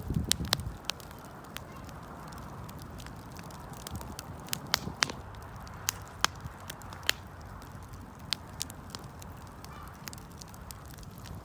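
Wood fire crackling, with irregular sharp pops and snaps over a steady low rumble of burning; a heavier burst of low crackling in the first second.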